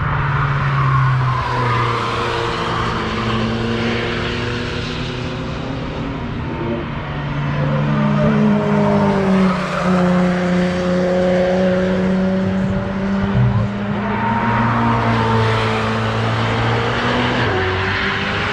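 Several cars going through a corner of the Nürburgring Nordschleife one after another, their engines revving with the pitch rising and falling as each passes and the next overlaps it.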